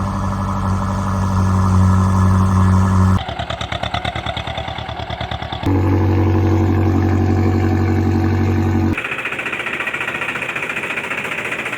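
Cartoon vehicle-engine sound effects that switch abruptly between a steady, deep engine drone and a fast, rattling chug, changing about every three seconds.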